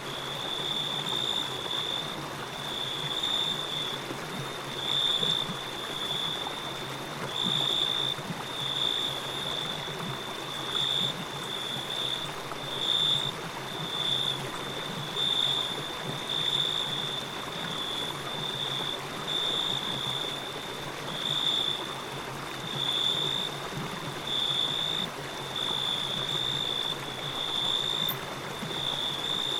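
Steady flowing water, like a stream, with a high-pitched chirping tone that repeats every second or two over it.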